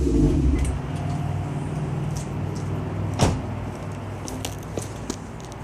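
Infiniti FX45's V8 exhaust through a Flowmaster 80 Series muffler, falling back from a rev to a steady, deep idle. There is a sharp click about three seconds in and a few lighter clicks near the end.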